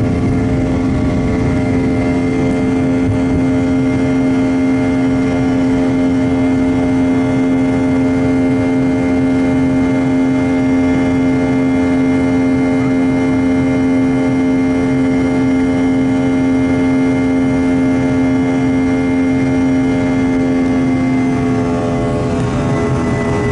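Boeing 717-200's Rolls-Royce BR715 turbofan engines during takeoff: a steady drone with several held whining tones over a low rumble. The tones shift slightly in pitch about 21 seconds in.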